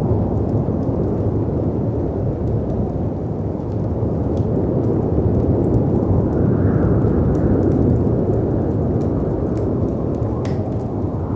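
Steady deep rumble of wind and sea waves, swelling about six to eight seconds in, with scattered sharp crackles and pops from a wood fire.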